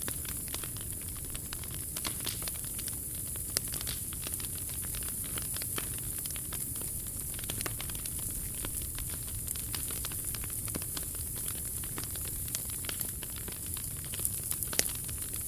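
Wood fire burning in a POMOLY T-Brick Ultra stove: frequent sharp crackles and pops over a steady hiss.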